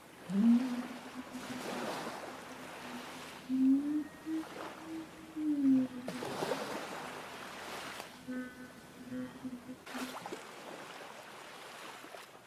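A woman's voice vocalizing freely without words, a long hummed tone that slides up and down with breaks between breaths, over the sound of waves washing.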